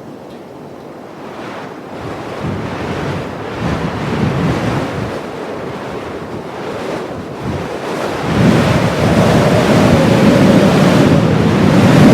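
Heavy blizzard wind blowing in rising and falling gusts, swelling to a loud gust about two-thirds of the way in that carries a faint, held howling note.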